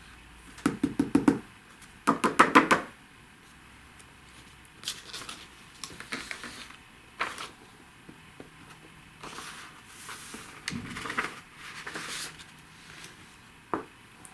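Pot of embossing powder being shaken and tapped: two short bursts of quick rattling taps about one and two seconds in, then scattered soft taps and rustling as the powder is poured over the stamped image and the excess tapped off.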